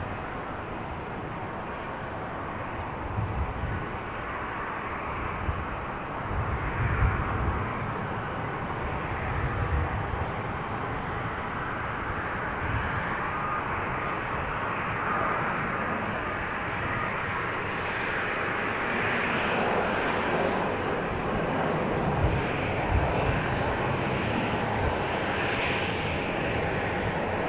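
Airliner engine noise, a steady rush that slowly grows louder as the aircraft draws nearer, with an uneven low rumble underneath.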